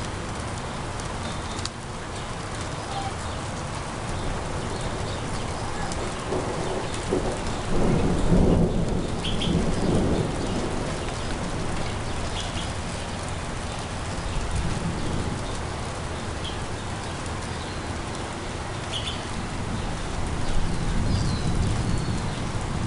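Distant thunder rumbling from a dry thunderstorm, swelling about a third of the way in and again near the end, over a steady hiss. Faint short chirps come now and then.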